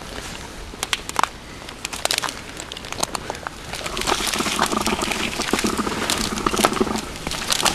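Heavy rain crackling and ticking close to the microphone, with rustling of rain gear; it grows louder about halfway through.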